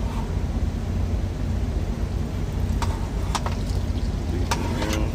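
Steady low rumble of an idling truck engine, with several sharp clicks and clinks of cooking utensils from about three seconds in.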